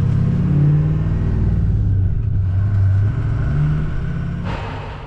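Vehicle engine running steadily while driving on the road, a low hum that fades out near the end.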